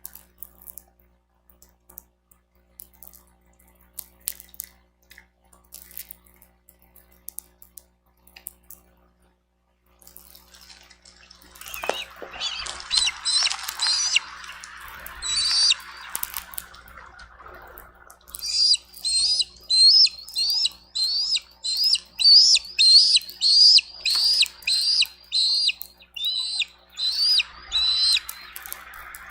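Bald eagle chattering: a long run of high, piping call notes, about two a second, in the second half. Before it come scattered faint taps of rain drips.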